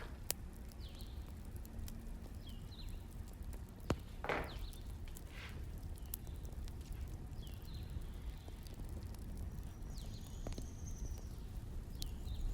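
Wood fire burning: a steady low rumble with a few sharp crackling pops, and several short high chirps over it.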